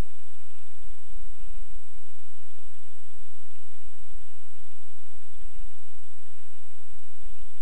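Loud, steady electronic static from a security camera's recording, with no street sound. It is an even hiss with a thin, high-pitched whine running through it and a crackling low hum underneath.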